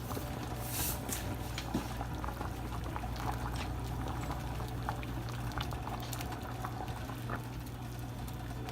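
Large pot of chicken soup boiling, bubbling with scattered small pops over a steady low hum, with a brief hiss about a second in.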